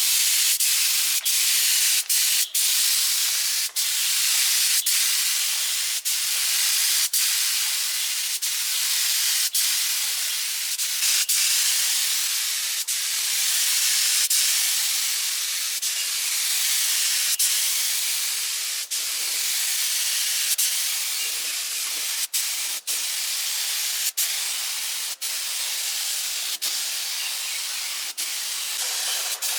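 Compressed air hissing steadily from an air tool, broken by many brief gaps.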